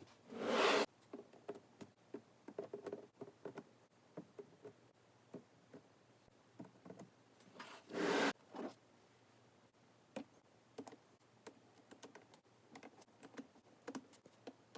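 Small neodymium magnetic balls clicking as they snap onto each other one by one, with two louder, longer rattles of many balls, at the start and about eight seconds in.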